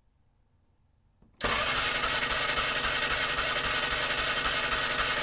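Polaris Ranger engine being cranked over by its electric starter, kicking in suddenly about a second and a half in and running on with a fast, even beat. The engine does not fire: it is turning over for a spark test, throwing only a weak, erratic spark.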